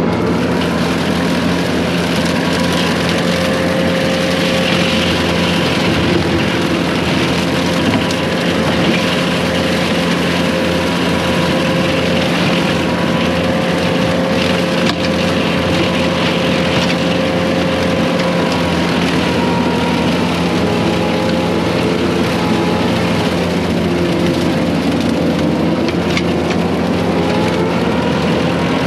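Case excavator's diesel engine running steadily with its hydraulic brush cutter spinning; a whine in the sound drifts lower and back up several times as the cutter works through brush.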